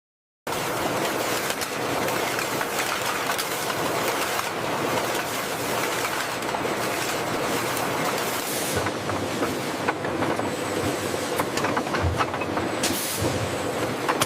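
Steady, dense clatter of an automated jar conveyor line moving empty glass jars, a continuous rattle of many small clicks that starts abruptly about half a second in. Brief louder hissing bursts come twice, in the second half.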